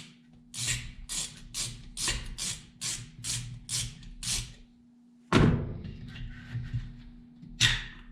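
Rhythmic scraping strokes of a hand tool working on chainsaw parts, about two or three a second. They stop about four and a half seconds in. A loud clunk follows about five seconds in, and another knock comes near the end.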